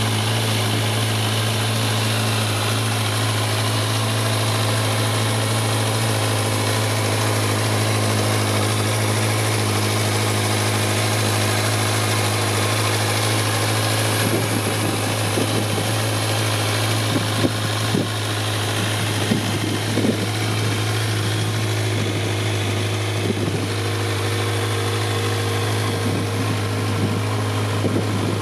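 Kawasaki Z1000 SX's inline-four engine idling steadily, with a few short irregular bumps in the second half.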